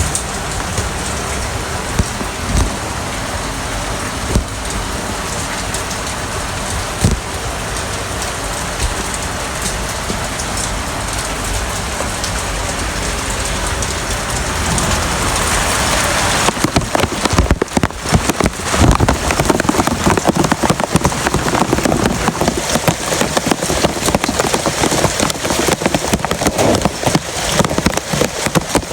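Heavy rain falling steadily, with a few low thuds in the first several seconds; about halfway through the rain grows louder and more uneven.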